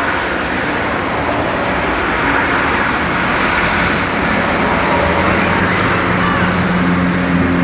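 Steady road-traffic noise, with a motor vehicle's engine hum growing louder over the last few seconds.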